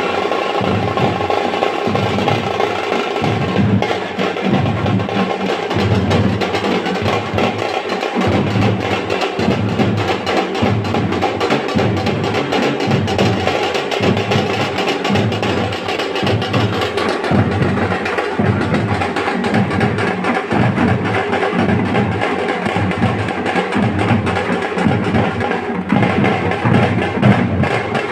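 Drums playing a steady, driving rhythm, with low drum hits repeating evenly throughout and sharper, wood-block-like strokes on top.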